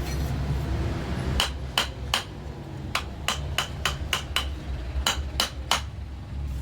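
Hammer tapping on metal during engine assembly: about a dozen sharp metallic strikes in three quick groups, each with a short ring.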